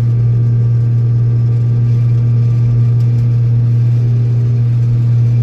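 Old Steiger four-wheel-drive tractor's diesel engine running steadily: a loud, constant low drone with no change in pitch.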